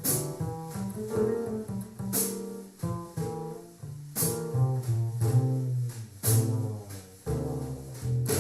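Instrumental jazz passage with a prominent double bass line and sharp hits about every two seconds, played back through a JBL Control 28 loudspeaker with an 8-inch woofer and a horn-loaded tweeter.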